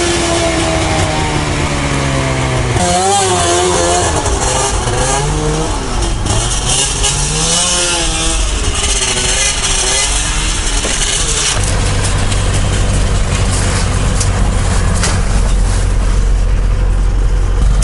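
Off-road vehicle engine easing off, then revving up and down unevenly as it works through deep snow, with a rushing hiss over it. About eleven seconds in it settles into a steady idle.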